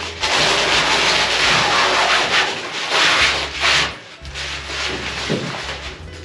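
Nylon release fabric being peeled off freshly cured fiberglass laminate, a rasping tearing noise. It is loud for about four seconds, breaks off briefly, then goes on more softly.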